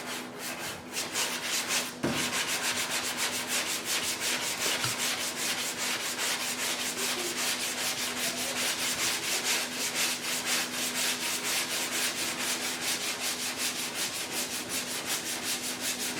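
Sandpaper on body filler on a car door panel: an even, fast rasping rhythm of sanding strokes that gets louder about two seconds in, with a steady low hum underneath.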